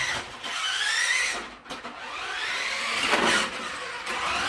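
Small electric motor of a converted toy-grade RC truck (Badzilla/Trak Attack motor) whining under throttle, its pitch rising twice as it spins up.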